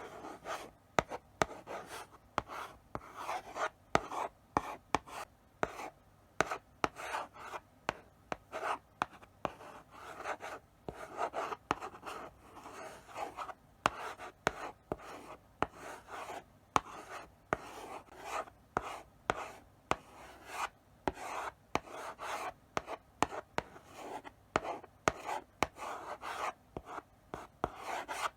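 Chalk writing slowly on a blackboard: irregular scratchy strokes, with frequent sharp taps as the chalk meets the board.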